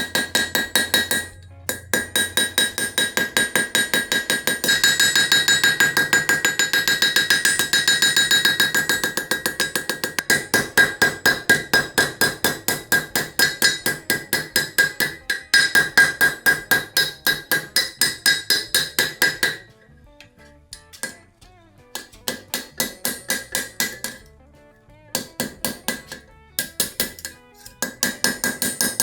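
Blacksmith's hand hammer striking iron on an anvil in a fast, steady rhythm, each blow ringing with a clear high tone. The hammering pauses briefly a few times, with the longest break about two-thirds of the way through.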